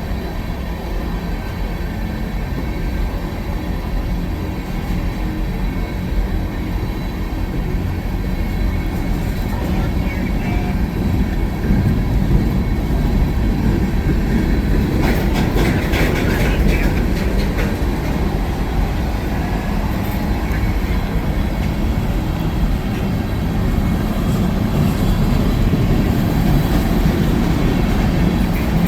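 A train rolling past on the track: a continuous rumble of railcars, growing somewhat louder partway through, with a brief cluster of sharp clicks about halfway.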